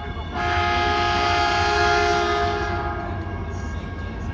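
Caltrain train horn sounding one steady chord blast of about two and a half seconds, over the low rumble of a train.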